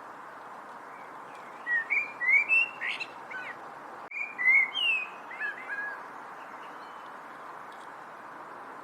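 A songbird sings two quick phrases of short, slurred, whistled chirps, one about two seconds in and another about four seconds in, over a steady background hiss.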